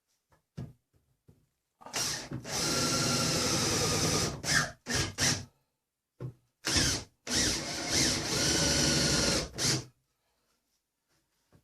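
Power drill boring through timber: two long steady runs of a few seconds each, with short trigger blips around them.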